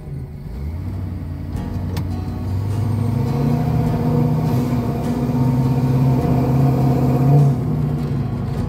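LS-swapped V8 in a 1972 Chevrolet Monte Carlo pulling the car along under way, heard from inside the car with the hood off. The engine note climbs as it pulls away, rises again a few seconds in, holds, then eases off near the end.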